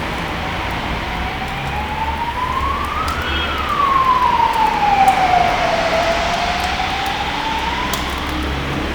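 Emergency vehicle siren wailing: one slow rise in pitch, peaking about three seconds in, then a longer fall and the start of another rise. A steady low rumble runs underneath.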